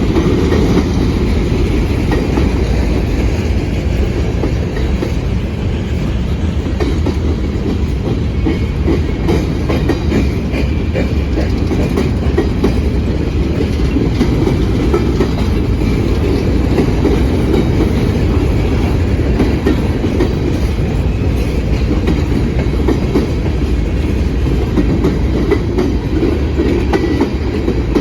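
Freight train cars rolling past close by: a steady, loud rumble with the clickety-clack of steel wheels over the rail.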